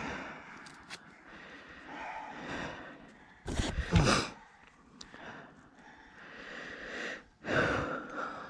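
A person breathing hard after riding, with loud, noisy exhales about three and a half seconds in and again near the end.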